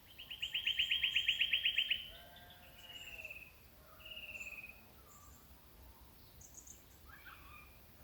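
A bird gives a loud, fast trill of about a dozen evenly spaced notes lasting about two seconds, then two short falling whistles. Fainter low calls and faint high chirps from other birds sound underneath.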